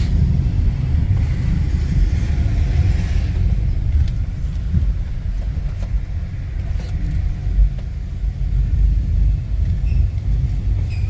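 Steady low rumble of a vehicle driving through city traffic.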